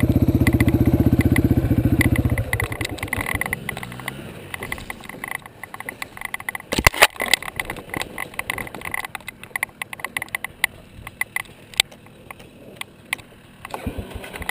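Yamaha TTR230 dirt bike's four-stroke single running steadily, then dropping away after about two seconds. What follows is quieter, with scattered clicks and knocks and one sharp knock about seven seconds in; engine sound comes back near the end.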